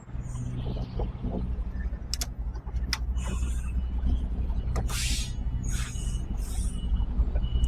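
Lorry's diesel engine running steadily as heard from the cab, with a few sharp clicks and short hisses. A reversing alarm starts beeping about six seconds in, roughly one beep every three quarters of a second, as the lorry backs onto the loading bay.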